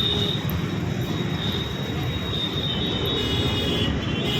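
Steady low rumble of passing vehicles, with a thin high whine over it.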